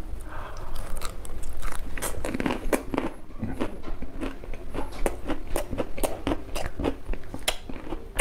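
A mouthful of raw cauliflower floret being chewed, with sharp, irregular crunches throughout.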